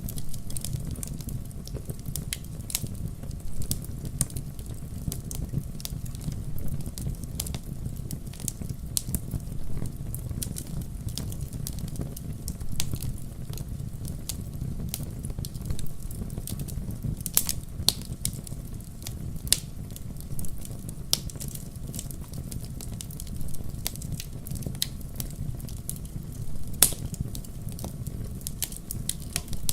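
Wood fire burning in a fireplace: a steady low rumble of flames with irregular sharp crackles and pops of the logs, a few louder snaps among them.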